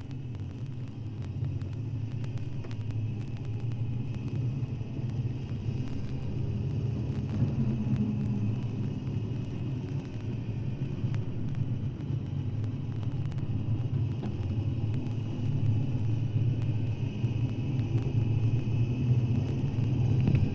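A low, steady rumble, like a vehicle running, slowly growing louder, with faint clicks scattered throughout.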